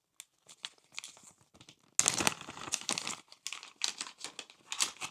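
Crinkling and rustling of plastic packaging being handled as a CD motor is taken out, with scattered light rustles and a denser burst of crinkling about two seconds in.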